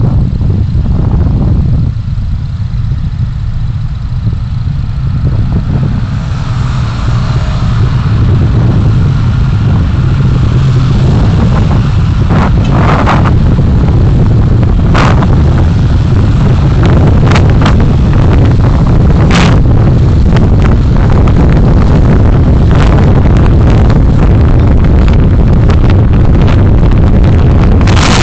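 A moving car's road and engine noise heard through a dashcam microphone: a loud, steady low rumble, with sharp knocks and clicks scattered through the second half.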